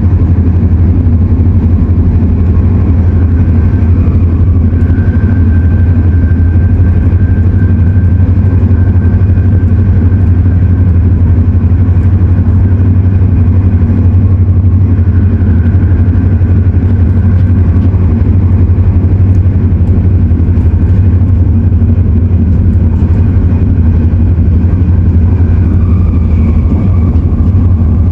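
Cabin noise of an MTR Airport Express CAF-built train running: a loud, steady low rumble, with a faint high tone that comes and goes a few times.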